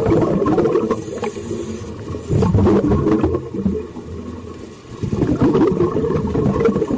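Deep, rumbling water ambience, a continuous low wash that swells and ebbs, dipping briefly a little after the middle.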